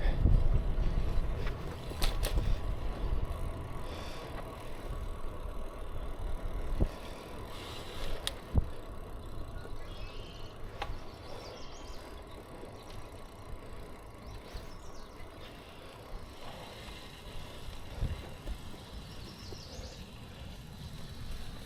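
Bicycle on the move: a low rumble of wind and road noise that is loudest for the first several seconds and then eases, with a few sharp knocks and rattles from the bike.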